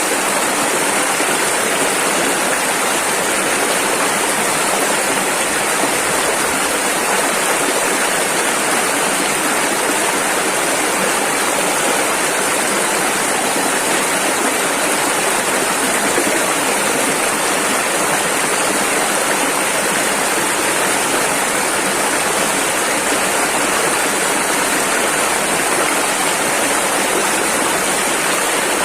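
Rushing river water flowing over rapids, a steady, unbroken rush.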